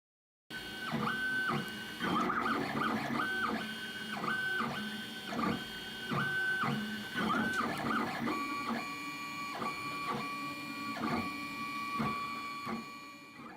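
3D printer running a print, its stepper motors whining at steady pitches that start and stop with each move. The whine drops to a lower pitch about eight seconds in as the moves change speed.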